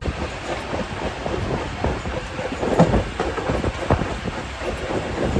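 Railway passenger coach running on the track, its wheels clattering over the rail joints in irregular knocks above a steady low rumble.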